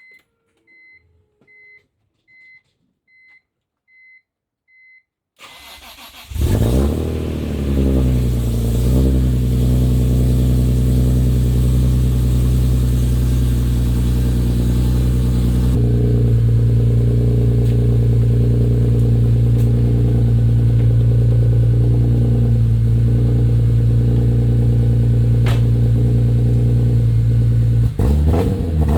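A row of about seven short high warning-chime beeps, then the BMW E46 M3's S54 straight-six cranks, catches about six seconds in and settles into a loud, steady high cold idle through a catless header exhaust. It is a cold start after months in storage, in freezing weather.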